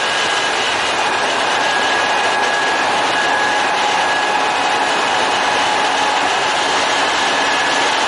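Kintetsu electric commuter train running along the line, a steady rush of wheel and rail noise with a steady high-pitched whine over it.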